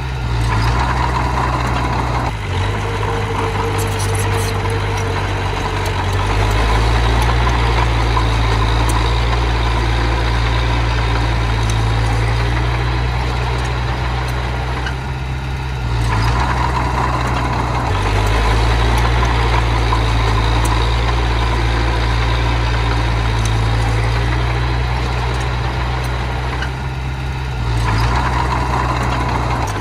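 Small bulldozer's engine running steadily under changing load. Its low note drops and rises again several times as the load comes and goes.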